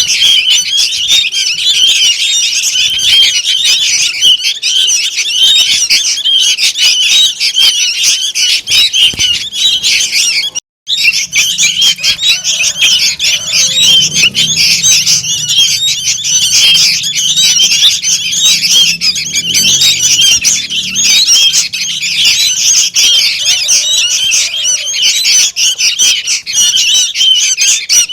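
Young sooty-headed bulbuls (kutilang) calling in a dense, noisy, unbroken chorus of shrill chirps and squeaks. This is the begging racket used as a lure call to attract bulbuls. The sound cuts out for a split second about 11 seconds in, then resumes.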